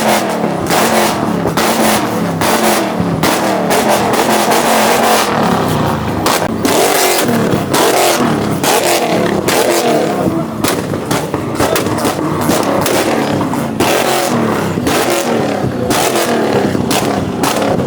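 Car engines revving hard over and over, their pitch sweeping up and falling back, with many sharp cracks and pops throughout.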